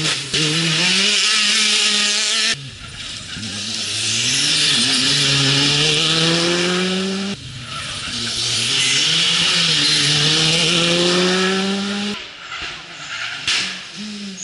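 Rally car engine at full throttle, accelerating hard through the gears: the pitch climbs, then drops at each upshift, three times. It falls quieter near the end with a few sharp cracks.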